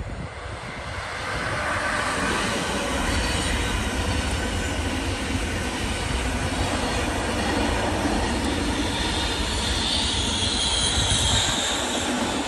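A train passing on the main line: the rumble and rush of wheels on rail builds over the first second or two, then holds steady and loud. A high-pitched wheel squeal comes in near the end.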